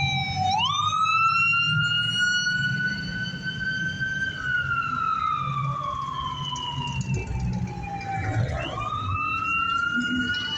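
Siren wailing. Its tone sweeps up quickly about half a second in, slowly rises and then falls over the next eight seconds, and sweeps up again near the end, over a low rumble.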